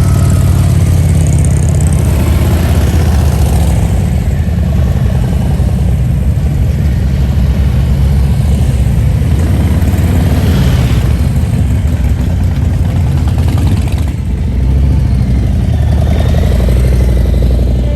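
Motorcycle engine running loudly with a deep, steady rumble; the level dips slightly twice.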